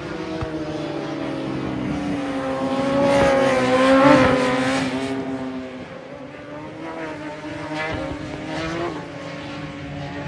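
Racing superbike engines running at high revs on the circuit, their sound swelling as they come past about four seconds in and then fading. Several engine notes overlap.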